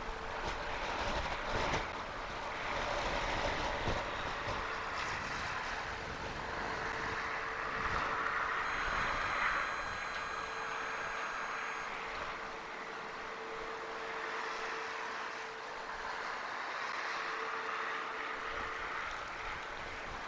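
Strong storm wind rushing over an outdoor webcam's microphone, swelling and easing in gusts, with a steady faint hum underneath.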